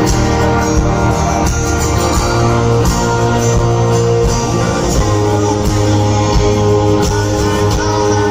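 Live rock band music, with guitars carrying sustained chords over a steady bass.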